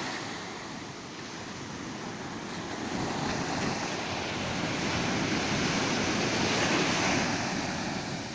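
Ocean surf on a beach: waves breaking and washing up the sand. The rush swells about three seconds in and eases off near the end.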